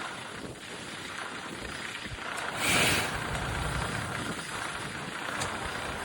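Fire truck diesel engine running steadily in heavy snow, with a brief louder rush of noise and a swell of low rumble about halfway through.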